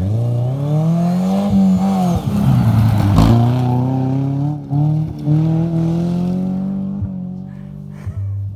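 Subaru Forester's flat-four engine revving hard as the car accelerates past on loose gravel, its pitch climbing, dropping about two and a half seconds in, then climbing again more slowly. It fades as the car drives away, with gravel spraying from the tyres.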